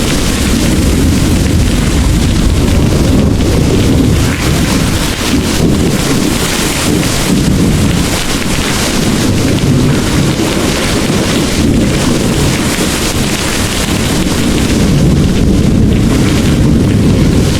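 Heavy rain pouring steadily, with a deep continuous rumble of thunder underneath.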